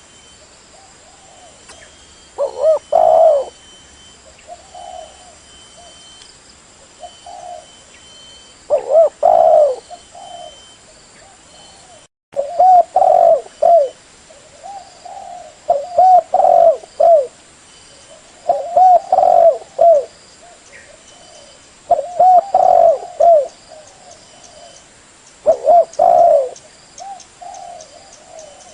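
Spotted dove (tekukur) cooing: short phrases of a few low, pulsing coos repeated every few seconds, the kind of call used to lure other spotted doves.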